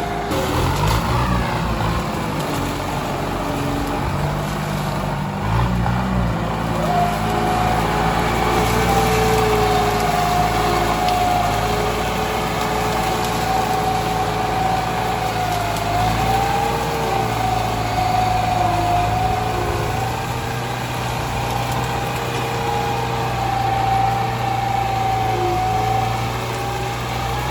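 Tractor engine running under working load, its pitch rising and falling as the load changes, with a steady high whine over it.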